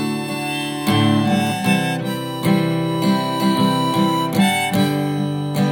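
Acoustic guitar strummed under a harmonica playing the melody: an instrumental break between sung verses of a folk song.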